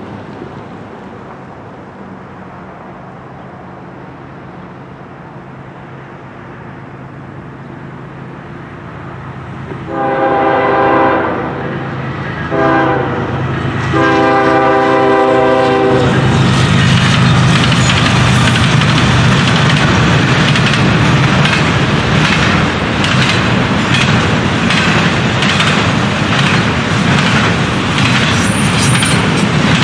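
Freight train horn blowing for the grade crossing: a long blast, a short one and another long one, starting about a third of the way in. The train then passes close by, loud and steady, its intermodal well cars' wheels clicking over the rail joints.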